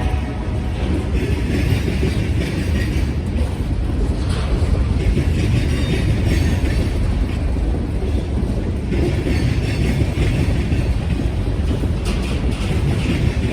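A BNSF train's cars rolling past close by: a steady, loud rumble of steel wheels on the rails with clickety-clack over the rail joints.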